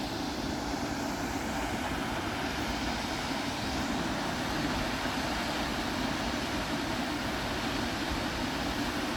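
Little River Falls pouring at low flow: a steady, even rush of falling water.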